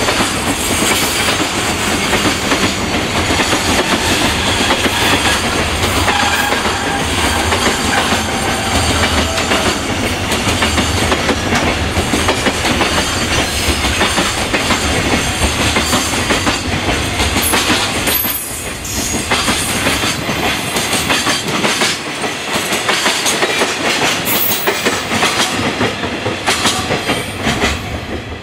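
A long freight train's container flatcars rolling past at speed, steel wheels clattering over rail joints, with a few brief thin squeals. The low rumble thins out in the last few seconds as the tail of the train goes by.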